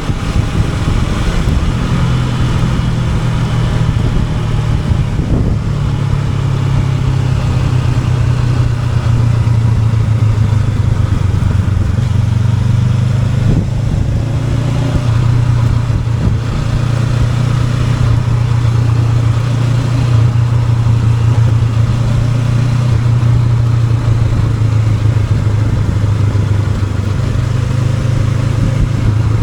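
Honda NX500 motorcycle's parallel-twin engine running steadily under way, its low drone shifting slightly in pitch now and then as speed and throttle change.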